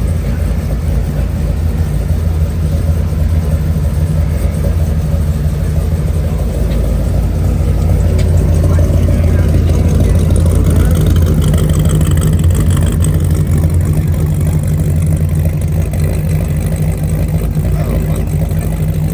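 1996 Chevrolet Impala's V8 engine and road noise while cruising, a steady low drone that swells a little midway.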